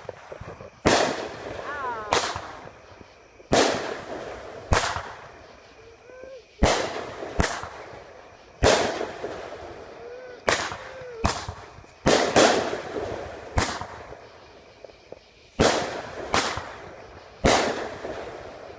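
A consumer firework firing a long series of loud shots, one every one to two seconds, each bang trailing off briefly as it echoes.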